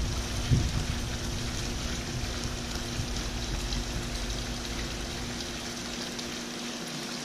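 Water pouring steadily from a sheer-descent water feature into a swimming pool, with a steady low hum underneath. A low rumble fades out near the end.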